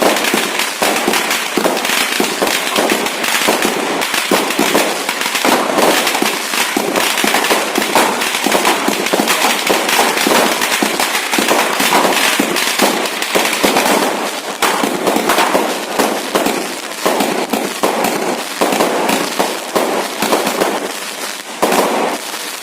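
Fireworks and firecrackers going off in a dense, continuous barrage of sharp cracks and bangs, many per second and without a break.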